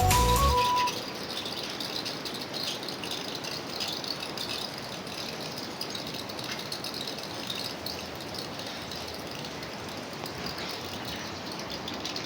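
A short piece of background music ends about a second in. It gives way to a steady, even noisy hiss with faint irregular ticks and rattles.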